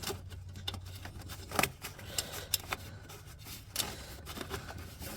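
Scattered light clicks and clinks from hands working parts under a car's hood, over a steady low hum.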